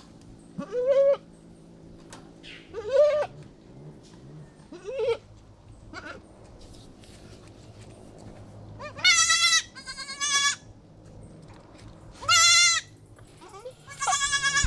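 Goats bleating: a doe with her newborn kids. There are three shorter, lower calls that rise in pitch, then from about nine seconds in four louder, higher, wavering bleats.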